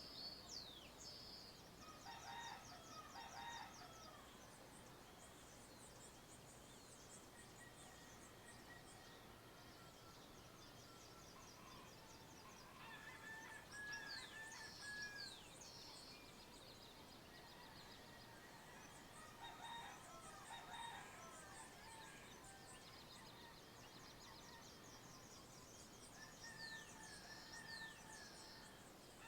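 Faint dawn bird chorus: a rooster crows twice, about 2 seconds in and again about 20 seconds in, while small birds keep up high, rapid chirping trills and a repeated thin whistled note.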